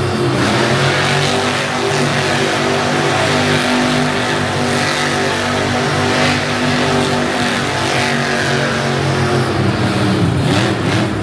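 Monster truck engine running loud and steady, its pitch falling near the end as it eases off.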